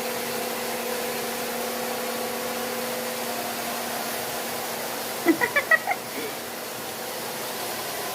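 A parrot gives a quick run of five short squeaks about five seconds in, over a steady hum and hiss from a running appliance.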